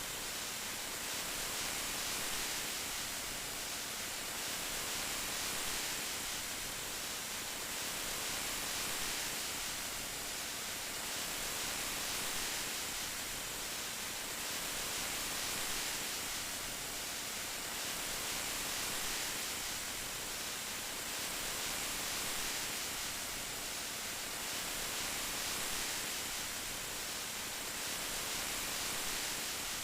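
Steady rain, a dense even hiss with no separate drops standing out, swelling gently about every three seconds.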